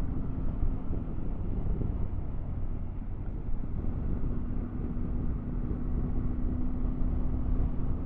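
Triumph Tiger 900 GT Pro motorcycle's three-cylinder engine running at a steady cruise, under a heavy rush of wind on the microphone, with a steady hum.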